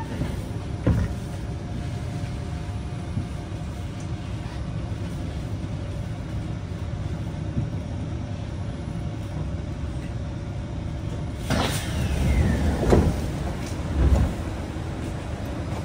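Inside a Kawasaki C151 MRT train car: a steady rumble with a constant hum and a sharp click about a second in. Near the end comes a whine that falls in pitch, followed by two louder knocks.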